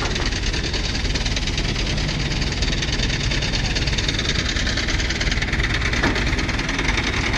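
Mahindra Yuvo Tech Plus 575 tractor's diesel engine running steadily with a fast, even clatter.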